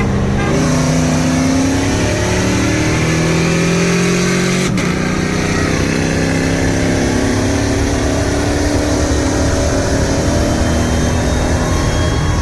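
A truck engine running, its pitch drifting slowly up and down as the revs change, with an abrupt edit cut about five seconds in.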